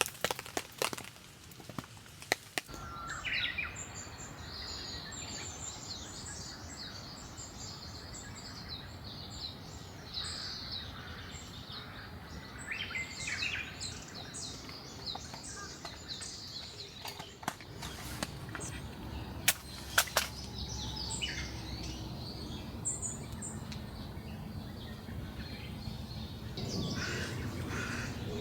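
Small songbirds chirping and trilling in quick, repeated high notes, starting about three seconds in. A few sharp cracks come in the first couple of seconds, and two more come about two-thirds of the way through.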